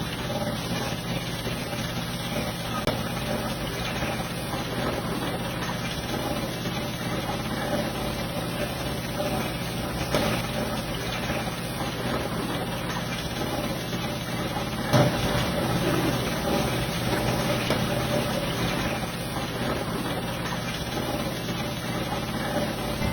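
Pressure washer running steadily, its motor and pump humming under the hiss of the water spray, with a brief louder burst about fifteen seconds in.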